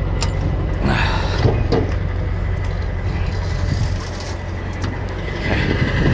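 Dump trailer's hydraulic lift running steadily, with the truck's engine humming underneath, as it strains to raise a bed overloaded with concrete.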